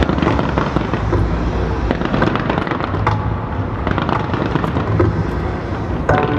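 Aerial fireworks going off in a dense, continuous barrage: rapid crackling and popping layered over repeated low booms.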